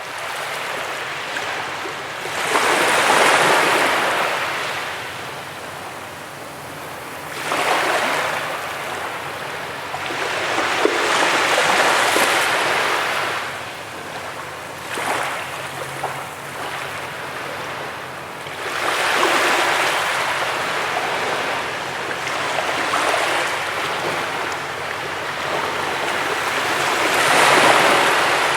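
Ocean waves breaking on a beach: five surges of surf wash in and draw back about every 4 to 8 seconds, with a steady hiss of water in between.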